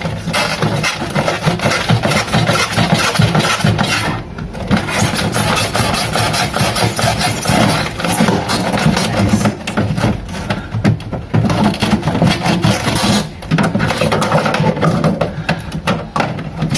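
Plastic panel and polystyrene foam scraping and creaking as a stuck fan housing is pried loose inside a refrigerator compartment, a dense crackling run with short breaks about four, ten and thirteen seconds in.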